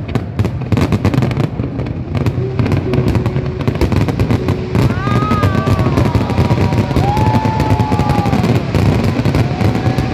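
Aerial fireworks shells bursting in a rapid, continuous barrage: many overlapping bangs and crackles over a steady low rumble.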